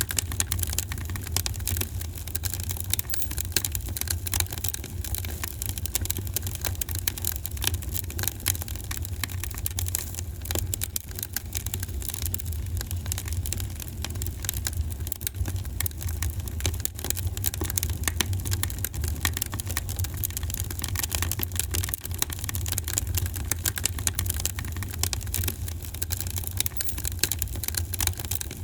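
Wood fire burning in a fireplace: many small irregular crackles and snaps over a steady low rumble.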